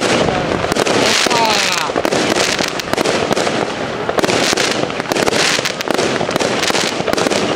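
Consumer fireworks going off in quick succession: a continuous run of bangs and pops from bursting shells, with no pause.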